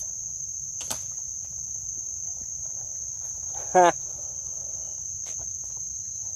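Steady, high-pitched drone of an insect chorus, unbroken throughout. A faint click comes about a second in, and a brief, louder vocal sound, a short grunt or syllable, cuts in at about four seconds.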